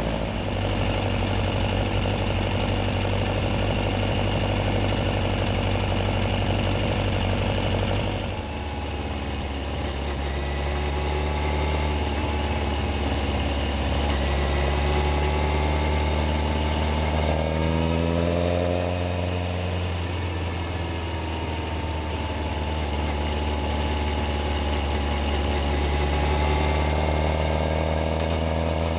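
Yamaha XJR1300's air-cooled inline-four engine running at a low, steady note. About eight seconds in the note changes, and around the middle its pitch rises as the bike accelerates before it settles back to a steady run.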